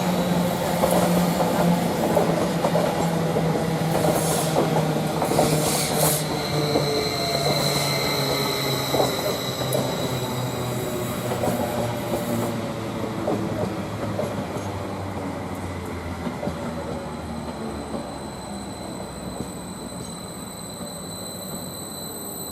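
Class 745 electric multiple unit slowing to a stop at the platform: its motor whine falls steadily in pitch as it brakes, with wheel squeal and clicks. The sound dies away gradually toward the end.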